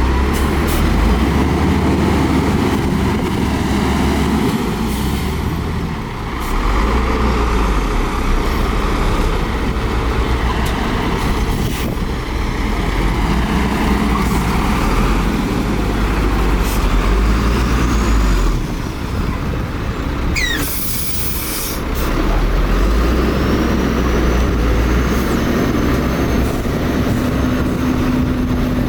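Heavy diesel construction machinery at work: a bulldozer's engine and dump trucks, the engine sound swelling and easing every few seconds as the machines take load. A short, loud hiss comes about two-thirds of the way through.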